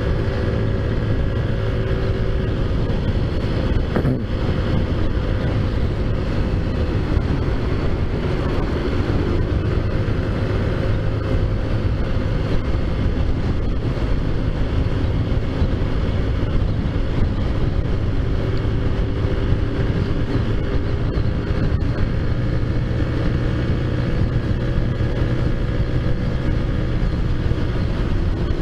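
Taotao Zummer scooter's 50cc four-stroke engine running at a steady cruising pace, with road and wind rush. There is a single short click about four seconds in.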